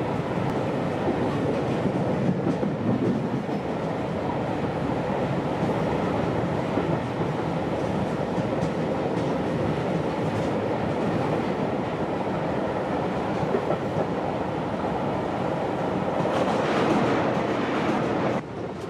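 Steady rumble and rattle of a train running, heard from inside a passenger carriage. It grows a little louder near the end, then drops off sharply.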